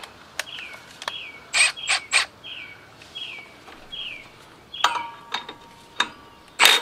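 A bird repeats a short falling chirp about twice a second. Over it come a few sharp metallic clicks and clinks of hand tools working on the mower, the loudest about two seconds in and right at the end.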